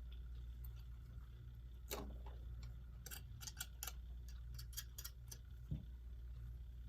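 Light, irregular clicks and taps of small tools and clock parts being handled at a workbench: one click about two seconds in, a quick uneven run of clicks in the middle, and a duller knock near the end, over a steady low hum.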